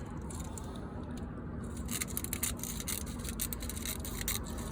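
Shears snipping through window screen mesh: a run of short, crisp cuts starting about two seconds in, over a faint steady low hum.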